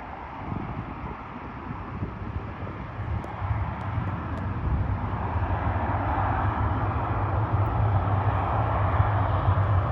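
Jet aircraft engines rumbling, growing steadily louder from about three seconds in.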